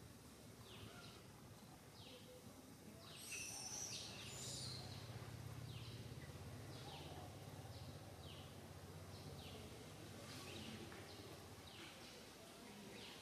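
Faint outdoor ambience: a bird repeats a short, high, falling chirp about once a second, with a quick flurry of higher chirps a few seconds in. A faint low drone sits underneath through the middle.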